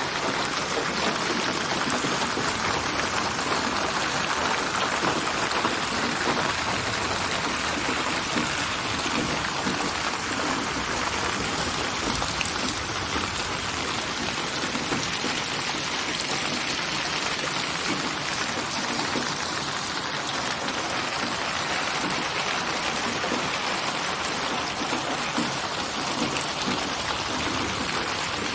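Steady rain falling, a dense even hiss with fine scattered drop patter.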